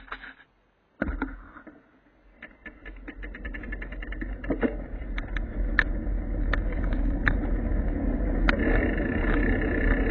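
A low, steady rumble starts suddenly about a second in and grows louder, with many sharp clicks and crackles scattered through it.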